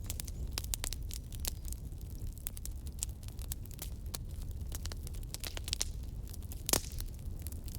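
Wood fire burning in a fireplace, crackling with frequent irregular pops over a low steady rumble, one louder snap near the end.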